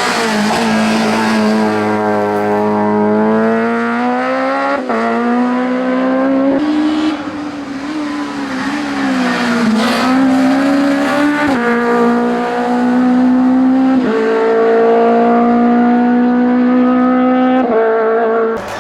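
Hillclimb race car engine at high revs, pulling through the gears with several abrupt jumps in pitch at the gear changes. In the middle it briefly drops in loudness and its pitch wavers as it comes off the throttle.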